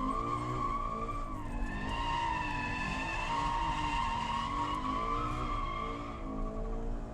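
Toyota GT86's flat-four boxer engine revving up and down while the tyres squeal steadily through a sustained drift. The squeal fades out near the end.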